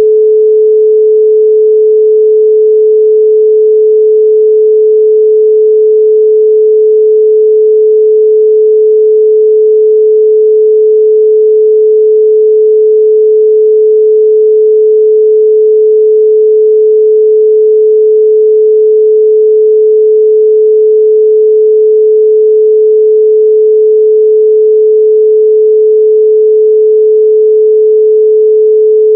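A steady 432 Hz pure sine tone, held at one pitch and a constant loud level with no overtones.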